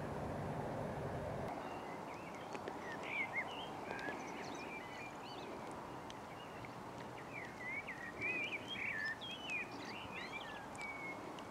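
Bird song: quick runs of high chirps and whistles in two bouts, over a steady outdoor background hiss. A low hum stops about a second and a half in.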